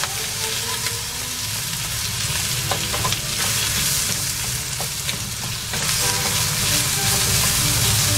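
Raw rice, chicken and bamboo shoots sizzling in a hot frying pan, stirred with a wooden spatula that scrapes and taps against the pan now and then; this is the rice being sautéed before the pilaf is simmered.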